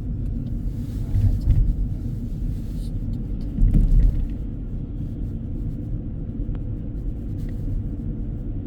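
Steady low road rumble inside a moving car, with two louder swells, one about a second and a half in and one about four seconds in.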